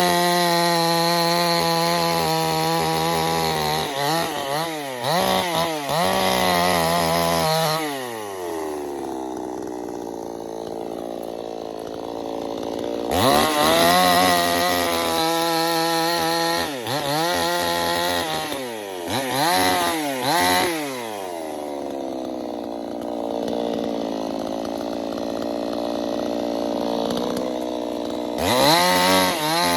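Chainsaw engine revving in quick bursts, then falling away to a low idle, and climbing back to high revs, several times over.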